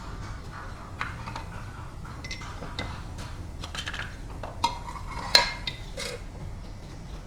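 Metal parts clinking and knocking together as they are handled: a string of light taps with short ringing tones, the sharpest about five seconds in.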